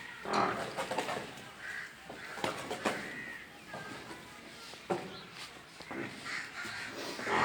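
Birds calling in short chirps and caws, with several sharp knocks and clatters scattered among them.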